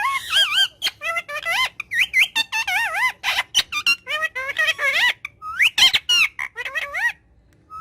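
A parrot chattering in a rapid string of high-pitched, wavering whistles and squeaks mixed with sharp clicks, pausing about seven seconds in.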